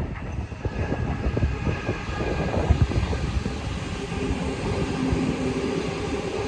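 Sydney Trains Waratah (A set) double-deck electric train passing close by, its wheels rumbling and clattering on the rails. A steady motor tone comes through more clearly from about two thirds of the way in.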